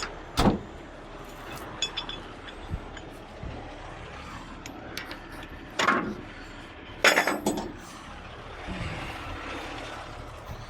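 Metal chains clanking and clinking as they are handled, several sharp strikes with a cluster about two thirds of the way in, over a steady idling diesel truck engine.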